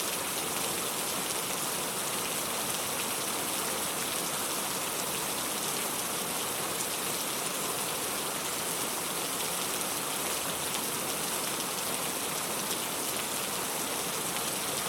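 Steady rainfall: a dense, even hiss of rain with fine pattering drops, unchanging throughout.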